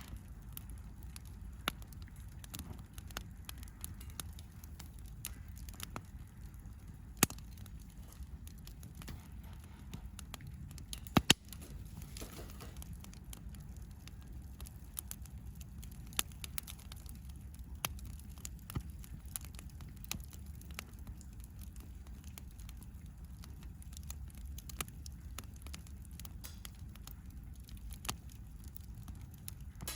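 Wood campfire crackling, with scattered snaps and a few louder pops, the loudest about eleven seconds in, over a steady low rumble.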